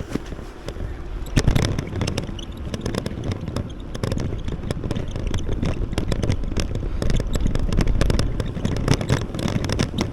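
Rain striking close to the microphone in many irregular taps, over a steady low rumble of wind buffeting the mic; the taps grow denser about four seconds in.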